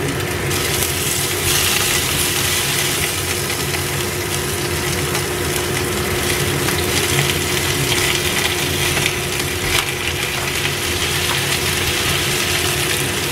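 Chicken wings sizzling as they go into hot oil with chopped shallots and garlic in a stainless steel frying pan, over a steady hum.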